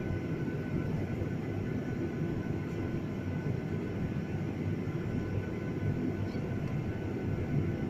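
Airliner cabin noise: the jet engines and airflow making a steady low rumble, with a faint steady whine above it.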